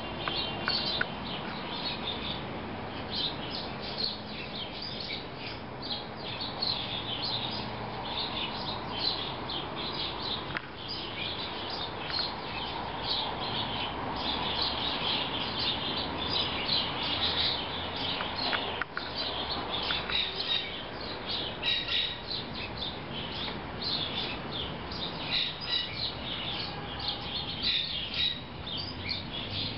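Small birds chirping in rapid, high-pitched short notes, many of them overlapping, over steady background noise.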